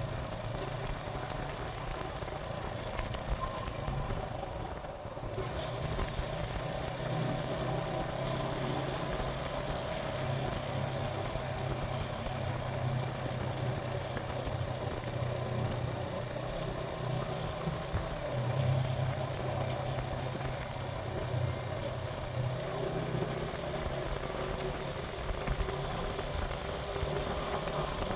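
Suzuki GN125 single-cylinder four-stroke engine running under way: a low drone that swells and eases a few times, over a steady hiss.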